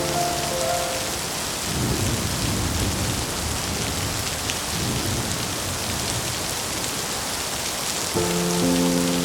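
Steady heavy rain with a low, rolling thunder rumble through the middle. Soft, sustained music notes sound at the start and come back in near the end.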